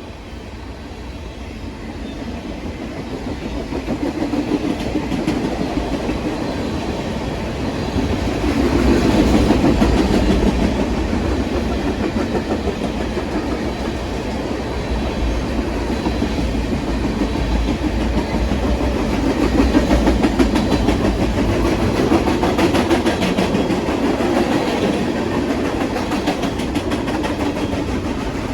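A train's cars rolling past, wheels clicking steadily over the rail joints. It grows louder about a third of the way through and again about two-thirds of the way in.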